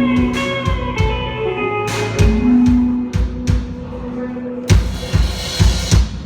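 Live band playing an instrumental passage: held electric guitar notes over a steady drum-kit beat, with a cymbal wash near the end.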